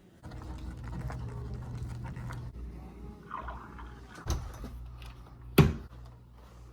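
Restroom room tone with a steady low hum that starts suddenly. About four seconds in there is a knock, and about a second later a loud, sharp click.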